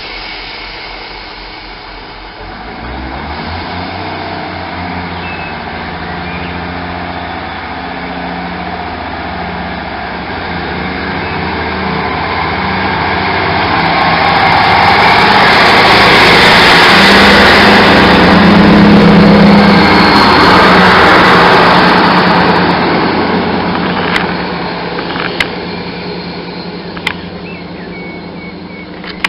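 Onboard a Class 158 diesel multiple unit: the underfloor diesel engine hums steadily under power together with running noise, which builds to its loudest past the middle and then eases, with a few sharp clicks near the end.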